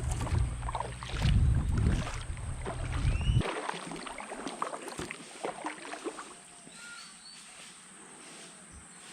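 Water splashing and dripping from a kayak paddle. A low wind rumble on the microphone stops suddenly about three and a half seconds in.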